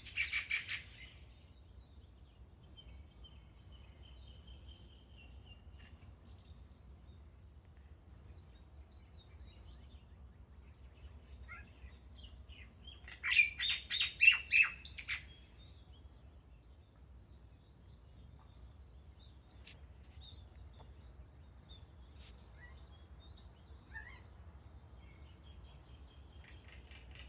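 Birds singing and calling: scattered faint high chirps and a short trill, then about halfway through a loud burst of rapid, harsh repeated calls lasting about two seconds, with another burst starting at the very end.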